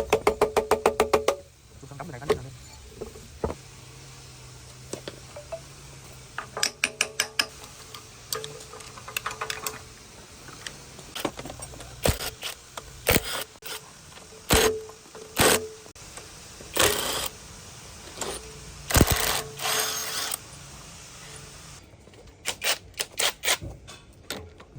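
Hand work on metal engine parts: short rattling runs of rapid metallic taps, separate sharp knocks, and a few longer scrapes.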